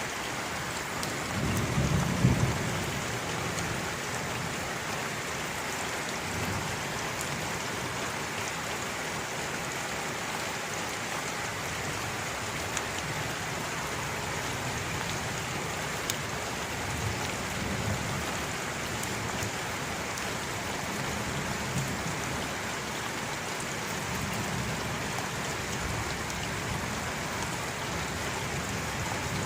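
Steady rain, an even hiss of falling drops, with low rumbles of thunder: the strongest about two seconds in, fainter ones later on.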